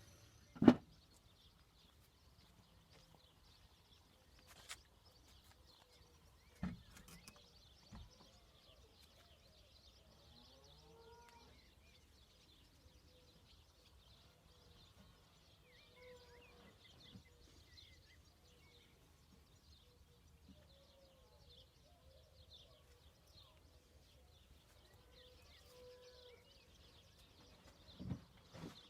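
Quiet outdoor ambience with birds chirping and a steady high hiss, broken by a few sharp knocks. The loudest knock comes about a second in, and two more come near the end.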